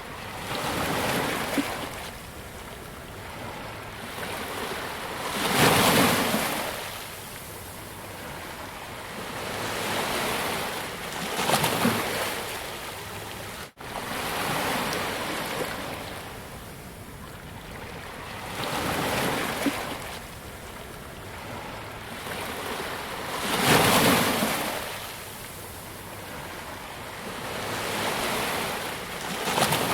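Ocean waves breaking and washing up a beach, swelling and fading every few seconds, with the biggest breakers about six seconds in and again near twenty-four seconds.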